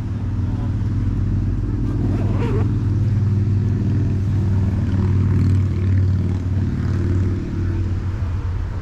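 A motor vehicle's engine running close by: a steady low drone that swells slightly through the middle and eases off near the end.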